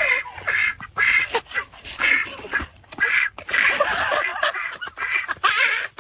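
Bird calls in a quick series of short calls, about two or three a second.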